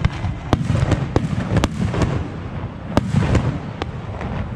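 Fireworks going off: an irregular string of sharp bangs, roughly two a second, with crackling and a low rumble between them.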